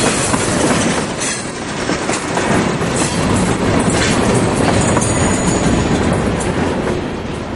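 Freight cars rolling past on steel wheels, clattering over the rail joints as the tail end of a long freight train goes by. The noise starts fading near the end as the last car moves away.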